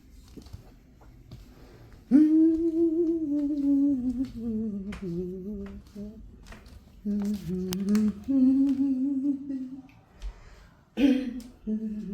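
A woman humming a slow, wordless tune in long held notes, beginning about two seconds in, with short breaks between phrases.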